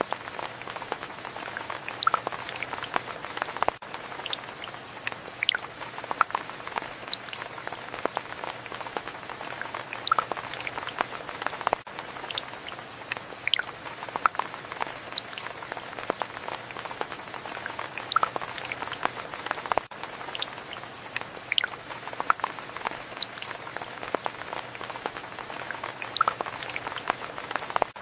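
Steady rain: an even hiss of rainfall with many scattered, irregular drops ticking and pattering close by.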